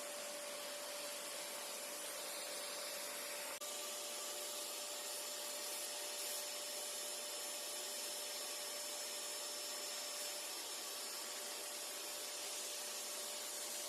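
Vacuum cleaner running steadily with a constant whine over a hiss. There is a very short dip in the sound about three and a half seconds in.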